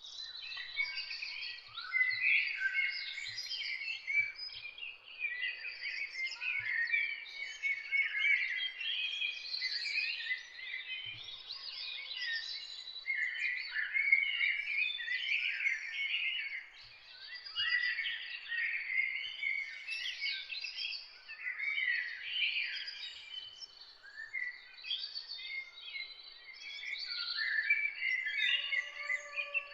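Several songbirds singing and chirping at once, a dense, continuous chorus of quick chirps and trills.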